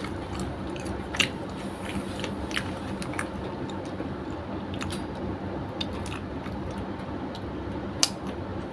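Close-up chewing of a person eating chicken adobo by hand, with scattered wet mouth clicks and smacks over a steady low hum.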